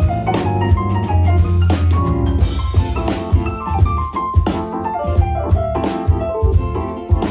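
Live band playing a piece at a sound check: keyboard melody and chords over a steady drum-kit beat and heavy bass.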